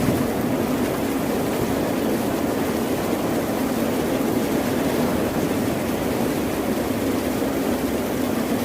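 Steady rushing water noise from an ambient nature recording, starting abruptly and then holding an even level with no separate wave surges.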